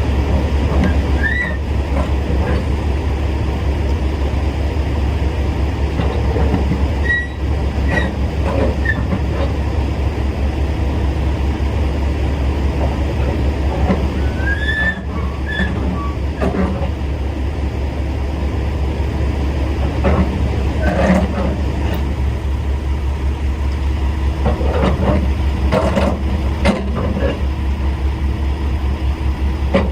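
Semi truck's diesel engine idling steadily with a constant low hum. Scattered clanks and knocks, and a few short high chirps, come and go over it.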